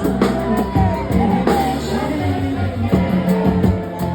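Live band music with a steady drum beat and singing.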